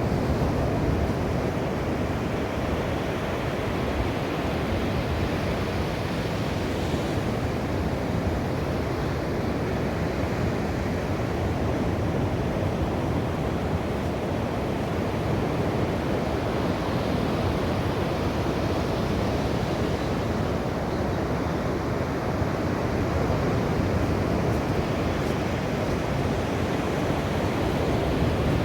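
Sea waves and surf washing continuously, an even, steady rush of water with no distinct breaks.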